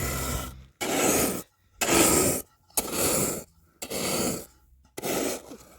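Five rasping, scraping strokes, about one a second, each lasting about half a second with short gaps between, like a tool worked back and forth by hand.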